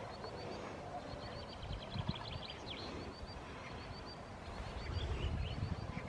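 A small songbird singing long runs of quick, high chirps, several a second, with short breaks, over the low rumble of wind on the microphone.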